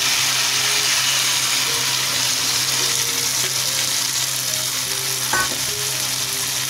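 Vegetables sizzling in hot oil in a cooking pot as soaked rice is tipped in, a steady hiss, with a low hum underneath. A short knock about five seconds in.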